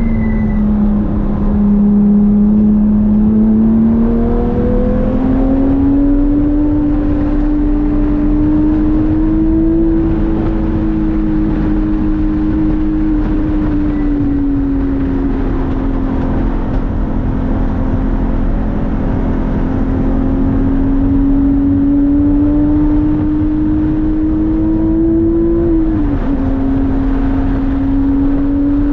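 Porsche 997 GT3's flat-six engine running hard, its pitch slowly rising and falling with engine speed, with a brief sharp dip near the end. Steady wind and tyre noise runs beneath it.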